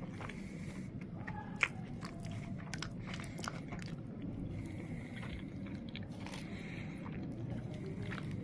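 Close-up chewing of a wrap of bread, beef, carrots and onions: many short wet clicks and crunches over a steady low rumble, with one sharper click about a second and a half in.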